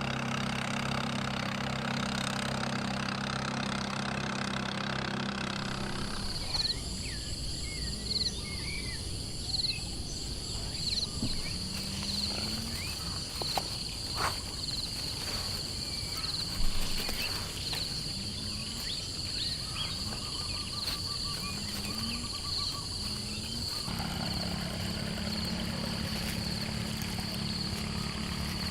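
Night forest ambience: insects keep up a steady high trill, with chirping calls and short low rising calls repeating every second or two. A steady low droning hum is heard at the start, stops about six seconds in and comes back near the end.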